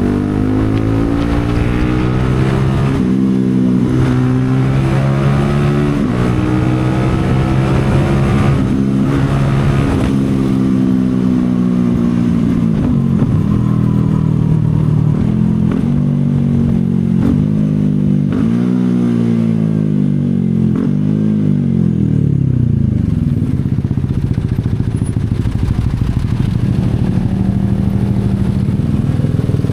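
CFMoto 250SR Lite's single-cylinder engine on the move, pulling up through several gears: the pitch climbs and drops back at each shift. About two-thirds of the way in it revs up and down quickly as the bike slows, then runs at a steady pitch near the end.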